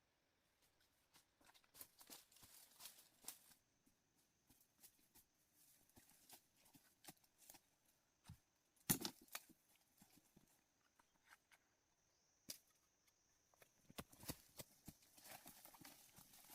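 Sparse faint clicks and knocks, with one louder knock about nine seconds in, over a faint steady high-pitched tone through the middle.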